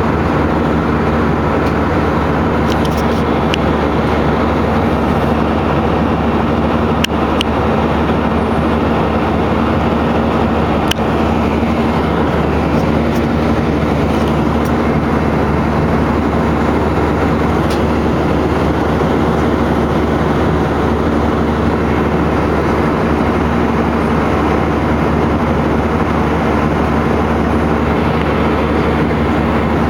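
Steady, loud drone of an airliner's engines and rushing air, heard inside the cabin, with a low steady hum under it and a couple of faint clicks.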